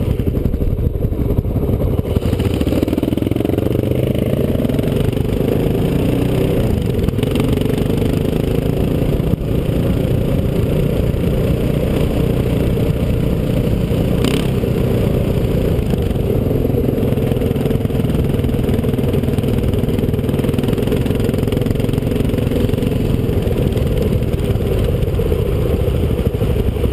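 Dirt bike engine running on board under changing throttle, its revs rising and falling as the bike rides along a rough track. A single sharp click about halfway through.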